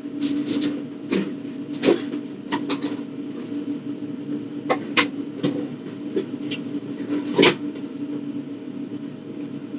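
Scattered knocks and clicks of things being handled, with a cupboard-like knock about 7.5 seconds in, over a steady low hum.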